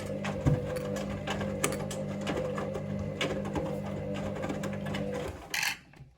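Hoover Link washing machine in its main wash: the drum motor hums steadily while the laundry tumbles with light knocks. About five seconds in the motor stops, the drum pausing between turns, followed by a brief swish.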